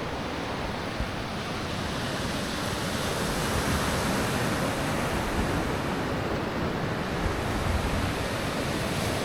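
Ocean surf washing onto the beach in a steady rush, with some wind on the microphone.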